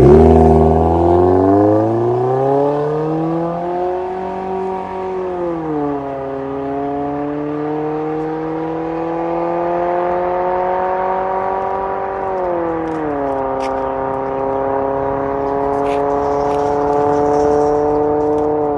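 Nissan Sentra B18's 1.6-litre HR16DE four-cylinder engine through an MS-R valved cat-back exhaust, pulling under load: the exhaust note climbs in pitch for about four seconds, then drops twice, about six and about twelve seconds in, each time settling into a steady drone.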